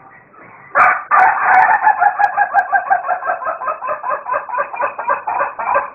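Rooster crowing: one long crow of about five seconds, starting about a second in and wavering rapidly throughout, then stopping suddenly at the end.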